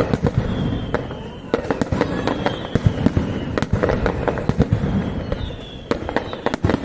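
Aerial fireworks display: a rapid, irregular run of bangs and crackles, with a high whistle drifting down in pitch a few times.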